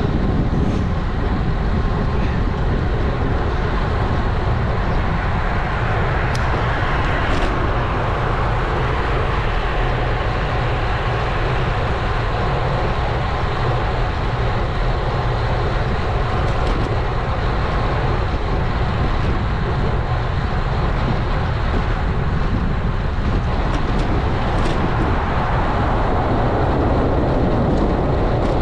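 Wind rushing over the action camera's microphone on a moving road bike, mixed with tyre and road noise, steady and loud throughout.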